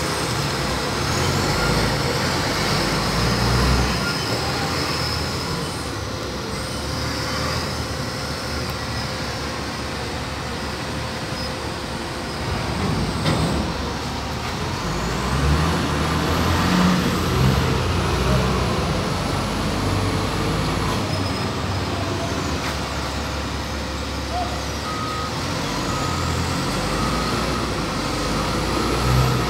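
Heavy diesel engines of container-handling vehicles, a container truck and a reach stacker, running steadily as a continuous low rumble. A faint high whine rises and falls now and then.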